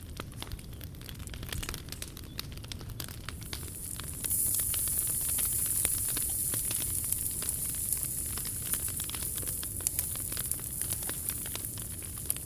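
Wood fire crackling, with scattered sharp pops. About four seconds in, a steady high hiss starts suddenly and carries on under the crackle.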